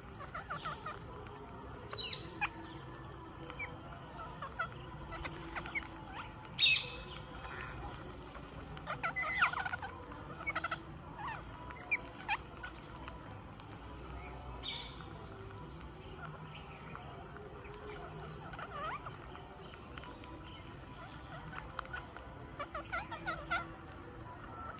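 Indian ring-necked parakeets calling: scattered short, sharp squawks and chirps, the loudest about seven seconds in, over a faint steady high-pitched background.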